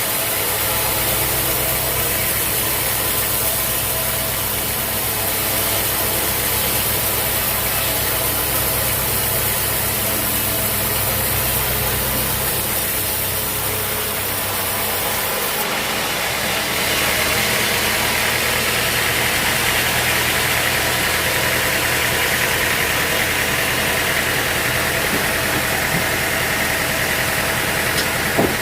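Sawmill engine running steadily. About 17 seconds in, its sound shifts to a brighter, hissier tone.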